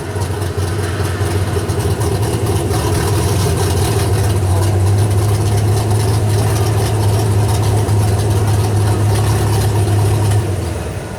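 Super stock 4x4 pulling truck's engine running hard at high, steady revs for about ten seconds, then dropping off near the end.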